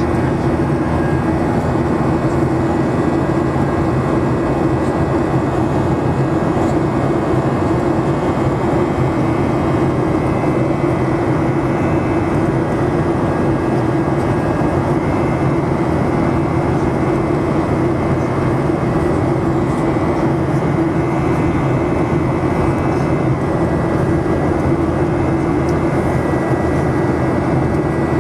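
Steady cabin noise inside a Boeing 737-800 in flight: the even drone of its jet engines and rushing air along the fuselage, with a low hum and a faint high whine holding constant.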